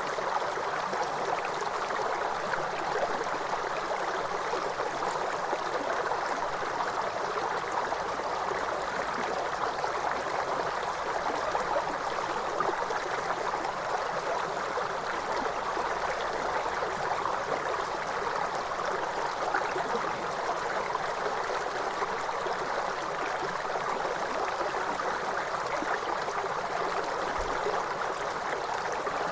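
Cascading waterfall water, a steady, even rush of running water with no breaks.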